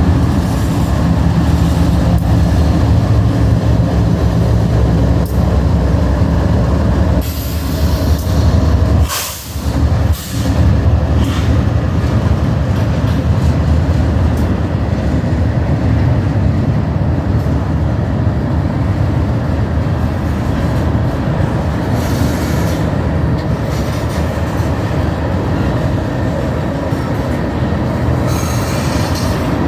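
BNSF diesel locomotive and train running with a steady, loud low rumble, which drops away sharply for a moment about nine seconds in.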